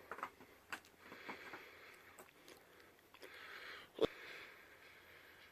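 Faint handling of a pet's track toy and its new cardboard insert: soft scrapes and light clicks, with one sharper click about four seconds in.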